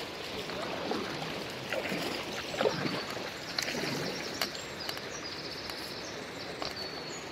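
River water rushing, with irregular splashes and knocks from a kayak and paddle in the first half. Small birds chirp in the second half.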